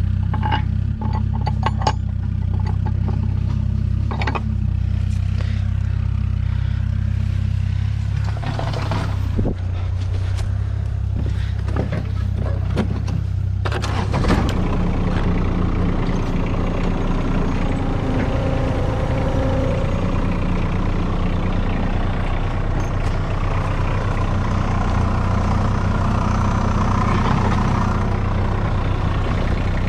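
Tractor engine running steadily while skidding logs, with scattered clanks in the first half and a sharp knock about fourteen seconds in, after which the engine note changes.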